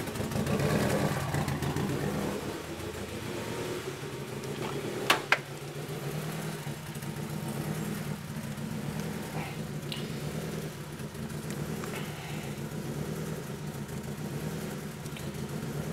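Turbocharged Honda Civic four-cylinder idling steadily while running extremely rich, with an air-fuel ratio below 7.35:1 and raw fuel dripping from the exhaust. Two sharp clicks sound about five seconds in.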